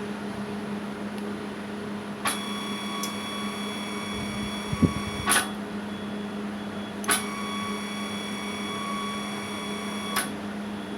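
DIY CNC router milling machine's axis drive motor whining through two moves of about three seconds each, starting and stopping with a click, as the axis is jogged to and from its home switch. A steady low hum runs underneath, and there is a single thump between the two moves.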